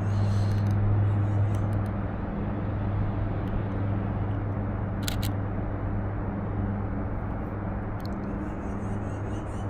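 Camera shutter firing once about five seconds in, a short sharp double click, over a steady low hum.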